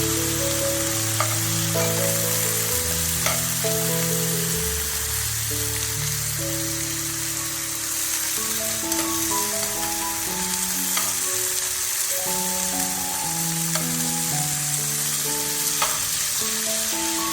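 Food frying in hot oil in a pan, a steady sizzle with a few sharp clicks from stirring, under background music.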